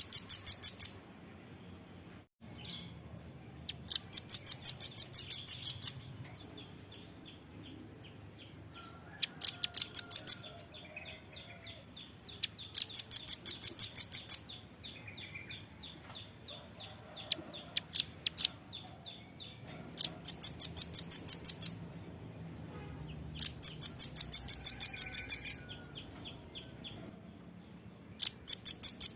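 Velvet-fronted nuthatch singing: fast, very high rattling trills of repeated notes, each a second or two long and coming roughly every four seconds, with softer chipping notes between them.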